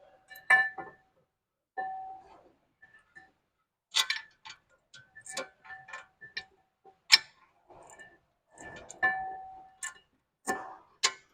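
Irregular metal clicks and clinks, some ringing briefly, as new brake caliper hardware clips are handled and snapped into the caliper bracket.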